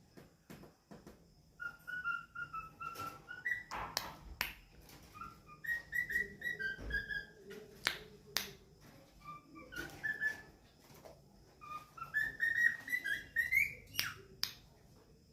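Cockatiel singing: three phrases of short whistled notes, the last one gliding upward at its end, with a few sharp clicks between the phrases.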